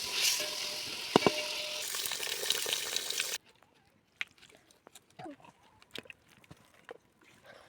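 Food sizzling and frying in a pan while it is stirred, cutting off suddenly about three seconds in; after that, a quiet outdoor background with scattered small clicks.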